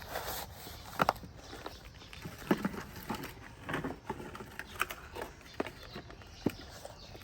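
Toy construction vehicles clattering: sharp, irregular plastic clicks and knocks, roughly one a second, over a faint hiss.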